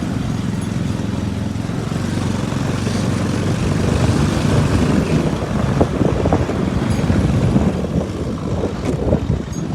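Engine of the Jeep running under load as it is driven in second gear, a steady hum for the first few seconds, then rougher and more uneven.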